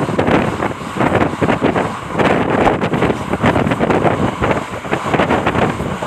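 Loud, gusty wind buffeting the microphone, with irregular bumps over a rumbling vehicle-like noise.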